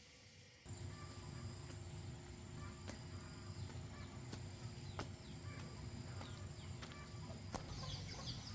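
Outdoor farm ambience: a steady low rumble with insects' thin, steady high trill and a few sharp ticks, and near the end birds start chirping in quick high calls.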